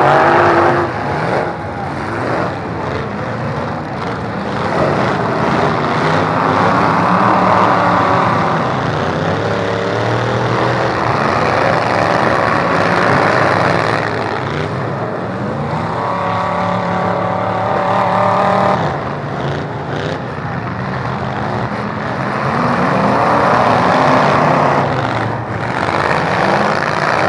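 Derby trucks' engines running and revving hard, their pitch climbing and falling again and again, with a few sharp knocks.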